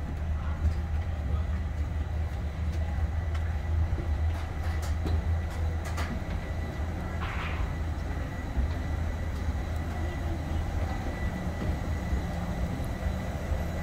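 Steady low rumble of a parked airliner and its ground machinery during boarding, with a faint steady high whine and a few light clicks.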